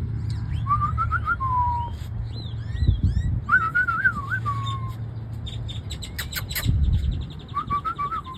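A person whistling the same short call three times, a quick warble followed by a held note that slides down, to call a pet over.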